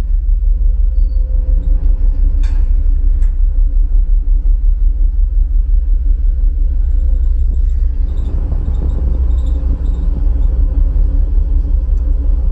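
Ferry's engines droning aboard the ship: a loud, steady low rumble with a few steady hum tones over it. Two short clicks come a little after two seconds in, and a broader rushing noise joins about eight seconds in.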